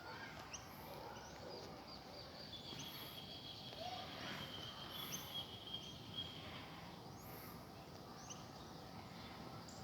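Faint outdoor ambience of small birds chirping: short rising chirps every second or so, with a steady high trill from about 3 to 6 seconds in and faint, very high, regular pulses like insects.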